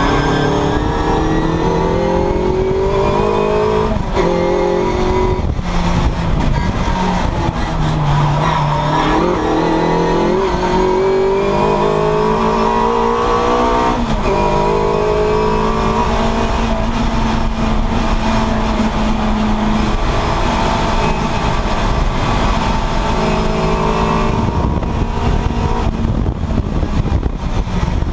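Classic Mini race car's engine heard from inside the cabin at racing speed, its revs climbing, dropping sharply at gear changes about 4 and 14 seconds in, falling and rising again around the 9-second mark, then holding a steadier note in the second half.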